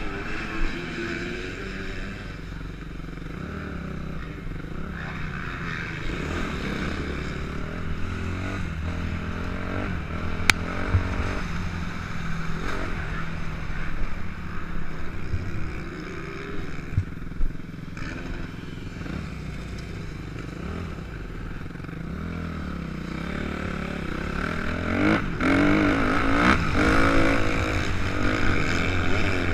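Suzuki RM-Z 250 motocross bike's four-stroke single-cylinder engine riding a track, its revs rising and falling again and again through the laps, with a few sharp knocks and louder revving near the end.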